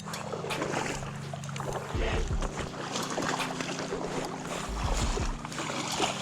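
A boat's motor running steadily, with wind buffeting the microphone in low thumps and water noise around the hull.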